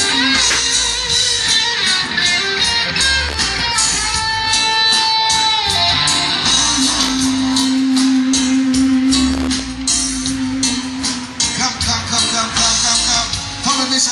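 A live reggae band plays an instrumental passage, with guitar to the fore over a steady beat and bass line. A note is held for a few seconds in the middle.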